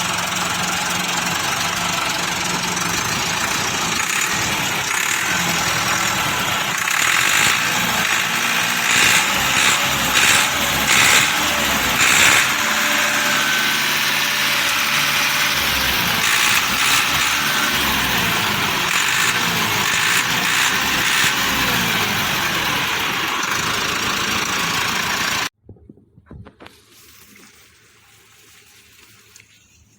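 Massey Ferguson MF 290 tractor's 4.41-litre four-cylinder direct-injection diesel engine running, its pitch rising and falling repeatedly in the middle as it is revved. It cuts off suddenly about 25 seconds in, leaving faint background noise.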